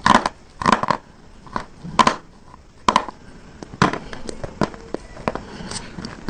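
Close-up crunching of a hard, brittle bar being bitten and chewed. There are loud sharp cracks about once a second for the first four seconds, then quicker, lighter crunches of chewing.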